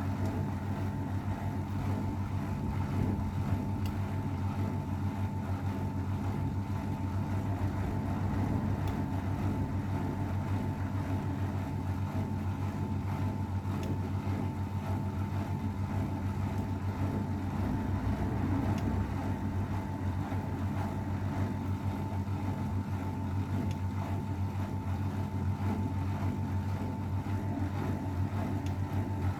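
AEG Öko-Lavamat 693 washing machine, about 32 years old, running steadily with a constant motor hum and a thin whine. There is no stop-start drum rhythm, which fits the drum spinning.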